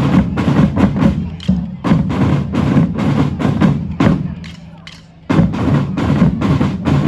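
A band of drummers playing a fast, dense rhythm on many drums together. About four seconds in they stop and the sound dies away, then about a second later they all crash back in on the beat.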